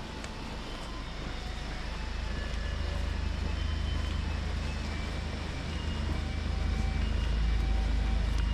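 Rainy street ambience: a low rumble, growing louder toward the end, over a steady even hiss, with faint short high chirps scattered through it.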